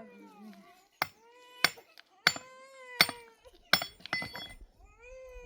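Hammering: about six sharp strikes roughly two-thirds of a second apart, each with a short ringing tail. Under them an animal gives several wavering calls that rise and fall in pitch.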